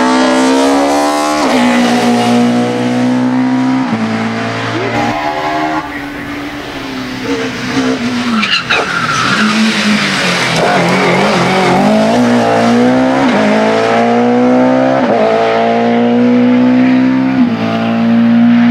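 A racing touring car's engine at high revs, its pitch climbing and dropping back with an upshift every couple of seconds. About six seconds in it slows for a corner with a brief tyre squeal, then accelerates hard through the gears again.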